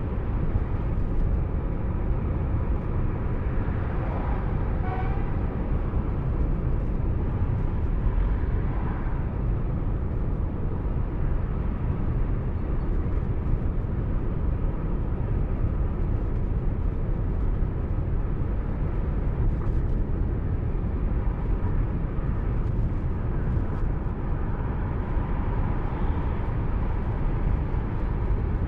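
Steady road and engine noise of a car driving on a highway, with a brief horn-like toot about five seconds in.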